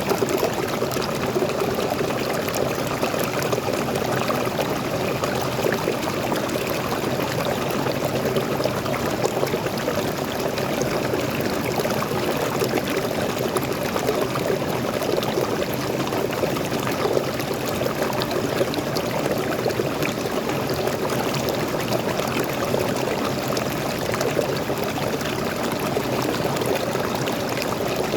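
Waterfall of fresh water pouring and splashing at a steady rate, one continuous rush with no letup.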